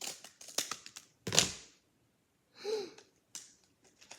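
Scissors snipping and paper crinkling as a homemade paper blind bag is cut open. One loud crackle comes about a second and a half in, and a short hum-like voice sound follows about a second later.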